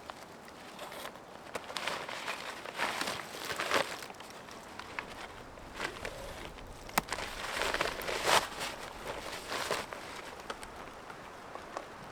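Irregular rustling and crunching with a few sharp knocks, loudest in two spells in the middle: someone moving about and handling gear, with footsteps.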